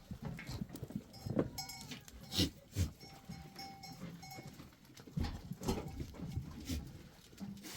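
Goats and sheep bleating, with scattered knocks and clatter.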